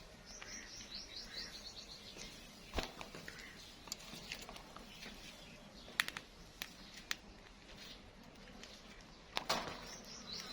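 A plum-headed parakeet giving a quick run of high, rapid chirps near the start and again at the very end. A few sharp clicks and knocks fall in between.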